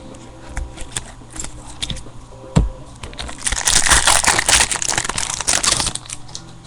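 Trading-card pack wrappers being crumpled and crushed: scattered crinkles, a single knock about two and a half seconds in, then a dense, loud crinkling for about two and a half seconds.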